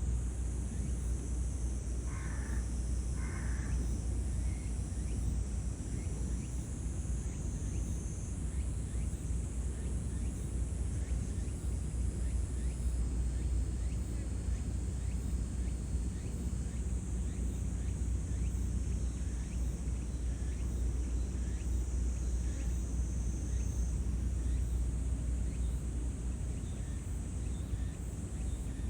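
Outdoor ambience: a steady low rumble under a thin, steady high-pitched hum, with two short calls about two and three seconds in.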